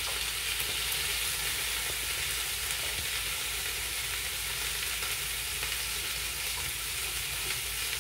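Pork-wrapped eggplant rolls sizzling steadily in a frying pan.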